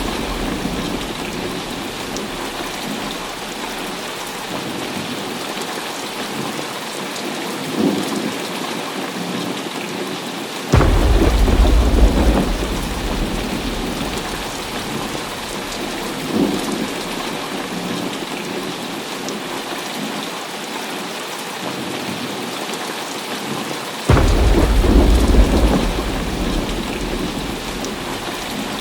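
Heavy rain falling steadily in a thunderstorm. Thunder cracks suddenly and rumbles for a couple of seconds about eleven seconds in and again near the end, with two smaller claps in between.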